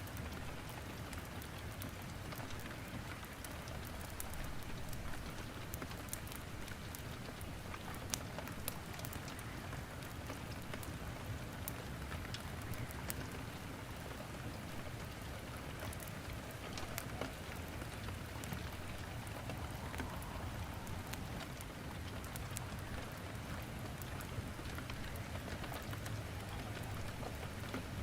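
Steady rain falling, with a wood fire crackling in a fireplace: frequent sharp little pops and snaps scattered over the even hiss of the rain.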